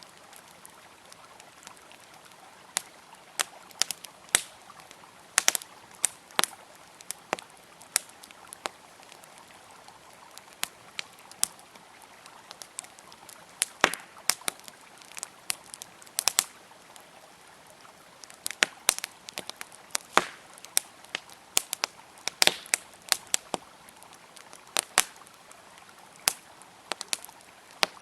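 Wood fire crackling, with irregular sharp pops and snaps, some in quick clusters, over a faint steady rush of flowing river water.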